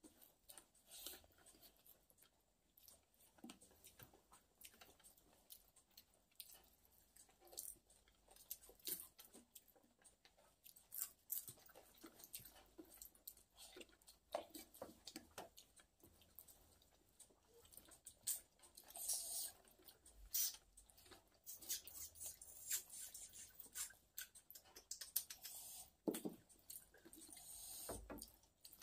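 Quiet, close-up eating sounds: soft, irregular chewing with small wet mouth clicks and smacks as rice and fish are eaten by hand.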